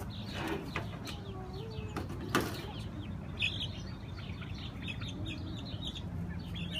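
Chickens clucking, then rapid high-pitched peeping from about three seconds in, with a couple of short rustling strokes, as of wings or handling, in the first seconds.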